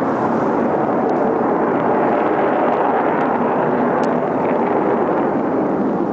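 Steady, loud noise of jet aircraft engines from military jets flying over, an unbroken rushing rumble with no distinct bangs.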